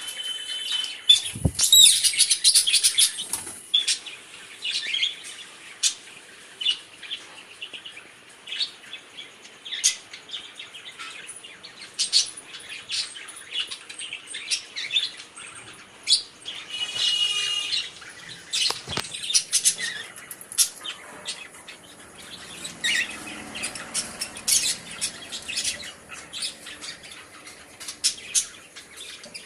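A colony of small birds chirping and calling constantly over one another, with wings flapping now and then.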